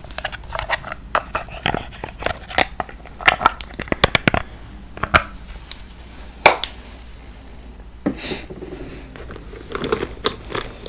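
Makeup products and cases being handled and tapped close to the microphone: irregular sharp clicks and taps, thickest in the first half, the loudest about six and a half seconds in, then softer rustling before a few more clicks near the end.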